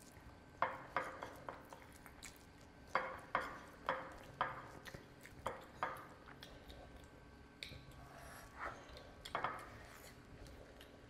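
Close-miked wet chewing and lip smacking of a mouthful of rice and curry eaten by hand, in short irregular smacks of about two to three a second, thinning out in the second half. Fingers gathering rice on the plate add soft scraping sounds.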